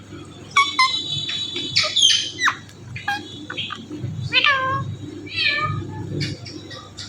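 Indian ringneck parrot calling: a run of short high-pitched whistles, chirps and squawks, several of them falling in pitch, with a few sharp clicks between them.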